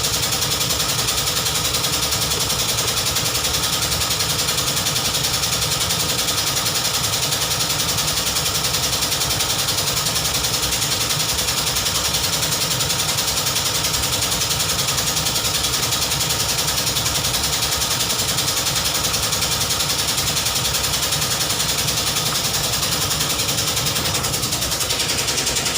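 BMW 320i engine idling steadily, with a fast, even pulsing clatter.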